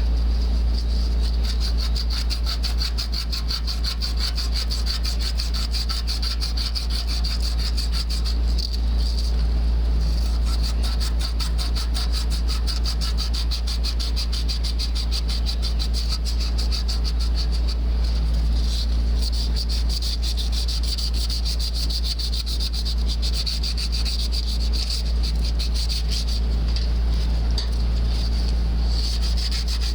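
Copper refrigerant line being hand-sanded with abrasive cloth in rapid back-and-forth strokes, cleaning the pipe for soldering, over a steady low hum.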